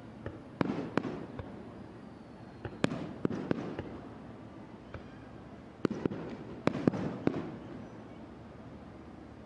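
Fireworks bursting overhead: sharp bangs in three clusters of several each, each bang trailing off in a short rumble and crackle.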